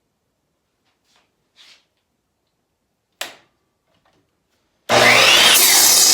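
Ryobi miter saw triggered: a short click, then about five seconds in the motor bursts on loud for just over a second, its whine sweeping in pitch, and starts to die away as the trigger is released.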